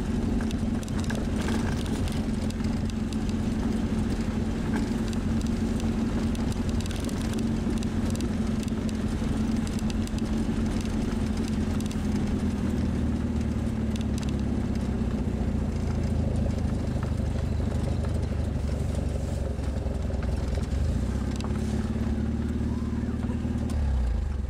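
1957 Škoda 440 Spartak's four-cylinder engine running steadily as the car drives slowly, heard from inside the cabin with road rumble.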